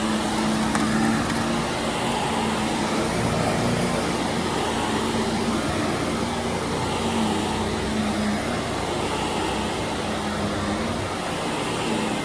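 Carpet-cleaning machinery running steadily: a continuous motor drone with a low hum that wavers slightly in pitch, over the constant hiss of a power washer in the background.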